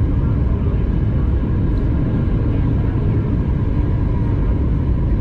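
Steady cabin rumble inside a Boeing 737 MAX 8-200 in flight: engine and airflow noise from its CFM LEAP-1B engines, heard from a passenger seat, with a faint steady whine above the rumble.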